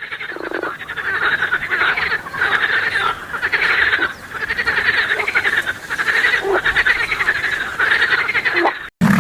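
Frogs croaking in rapid, pulsing calls that come in repeated bouts of about a second each, cutting off abruptly near the end.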